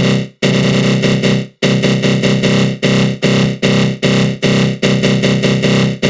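Synthesized attack-growl sound effect from the GMS synthesizer with a flanger: a harsh, buzzing tone in repeated pulses, each fading out. After a longer held pulse near the start, the pulses come quickly, a little more than twice a second.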